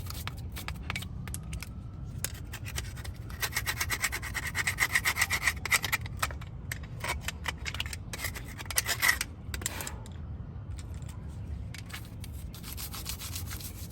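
Hand tool working metal at a car's disc brake caliper: quick, repeated rasping strokes, with the longest and loudest run of about two seconds a few seconds in and shorter runs later.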